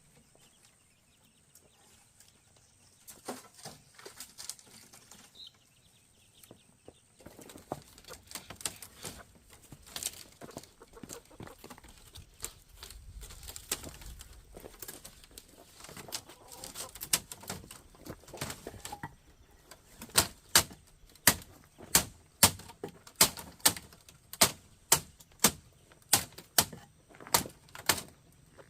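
Hammer blows on wood, scattered and irregular at first, then a steady run of loud, sharp strikes a little under one a second in the last third.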